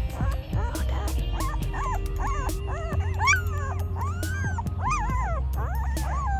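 Eleven-day-old German Shepherd puppy crying in a rapid run of short, arching whimpers and squeals, the distress of being stressed during handling for stress conditioning. Background music plays beneath.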